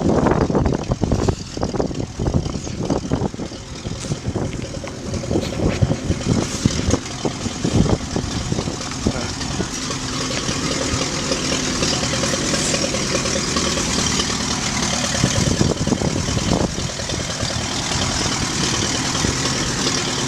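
Tractor engine running, with irregular knocks and clatter over the first several seconds, then settling into a steady idle.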